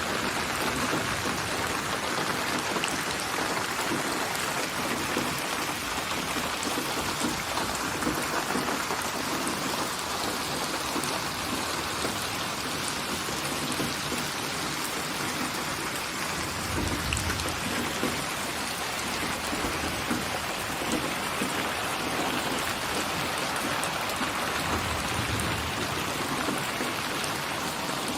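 Steady rain falling, an even hiss of dense drops. A low rumble swells briefly about halfway through and again near the end.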